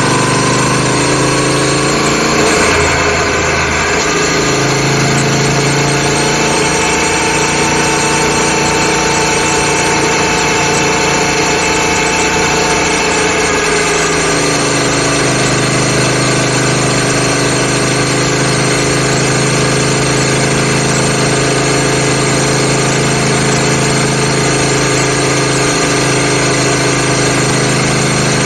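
Royal Enfield Continental GT 650's 650 cc parallel-twin engine running under way through aftermarket stainless exhaust cans with baffles. The engine note climbs and eases with the throttle over the first half, then holds steady at a cruise from about halfway.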